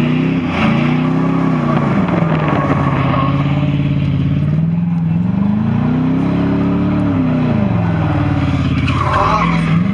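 Truck engine revving: its pitch swells up and falls back to a steady idle several times, with a long slow rev in the middle.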